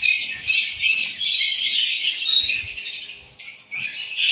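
A flock of small aviary birds chirping and chattering, many short overlapping high calls, with a brief lull about three and a half seconds in.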